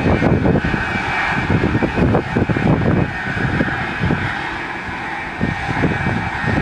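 Airliner engines running loud, a steady whine held over a deep, uneven rumble.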